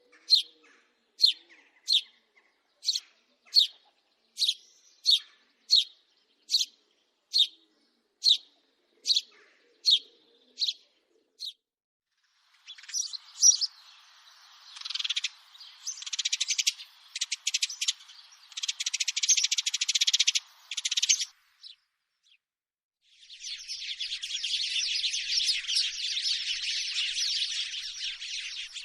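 House sparrows calling: a string of evenly spaced single chirps, about one every 0.7 seconds, for the first eleven seconds, then bursts of rapid chattering, and from about two-thirds of the way in a continuous dense chatter of many chirps at once, like a group of sparrows chirping together.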